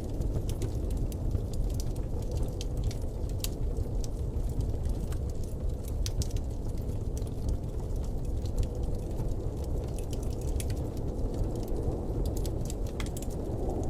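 Blizzard wind blowing steadily as a deep, even rush, with scattered light ticks and clicks throughout.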